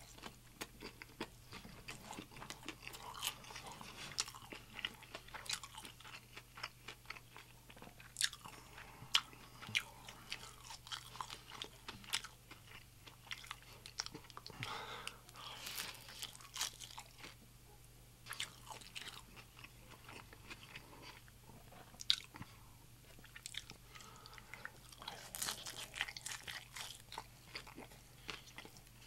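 Close-miked chewing and biting of crispy birria tacos, with many crackling crunches, a few sharp ones standing out. There is a quieter stretch a little past the middle.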